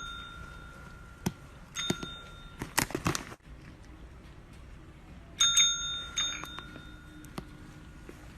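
A small metal bell struck several times, each strike ringing out with a clear high tone, with a short clatter of clicks around three seconds in.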